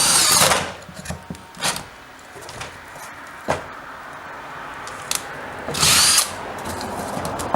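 Electric power drill boring holes in a wooden piece: the drill's whine stops about half a second in, a few sharp knocks follow, and the drill runs again in one short burst about six seconds in.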